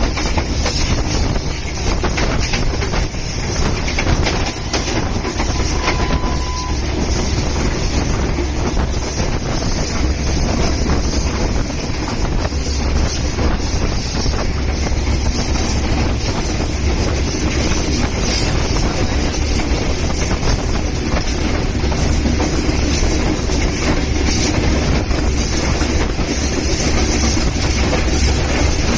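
Shah Latif Express passenger train running on the track: a steady rumble with the continuous clickety-clack of coach wheels over the rails. A short high-pitched tone sounds about six seconds in.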